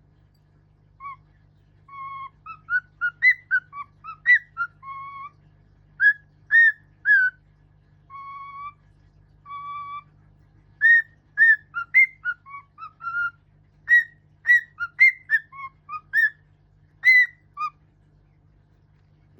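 Pet bird whistling a melody: a run of clear whistled notes, some short and gliding, some held, in phrases with short pauses.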